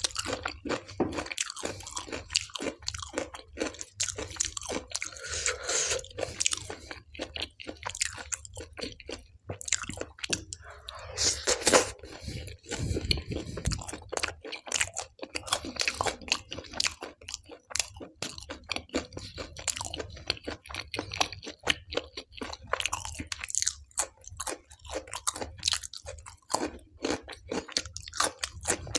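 Close-up wet chewing and crunching of a mouthful of dal and naan, a dense run of quick smacking clicks, with a louder burst a little before the middle.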